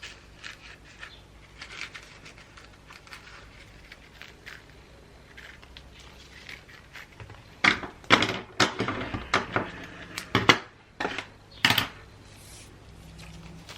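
Gift wrapping being handled: light rustling and small taps, then a run of louder, sharper crinkles and snaps over several seconds in the second half.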